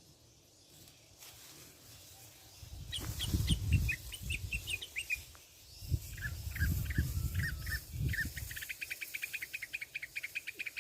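Small songbirds calling in quick series of short, high chirps that start about three seconds in and speed up into a rapid chattering run near the end. Low rumbling noise comes twice alongside the calls.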